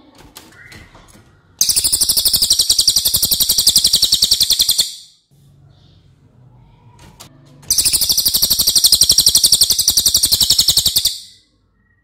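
A cililin singing: two long, dense rapid-fire runs of sharp high notes repeated very fast and evenly, each lasting about three seconds, with faint softer chirps before and between them.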